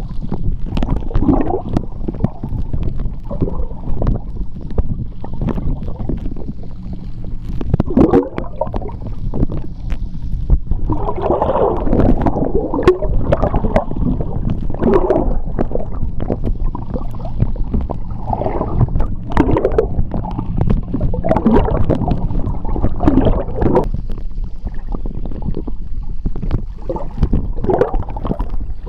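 Seawater heard underwater: a low, churning rumble of moving water with irregular gurgling surges of bubbles every second or two.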